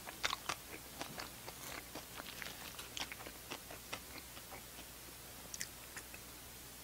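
A person chewing bread close to the microphone: soft wet mouth clicks and smacks, quick and irregular for about four seconds, then only a few.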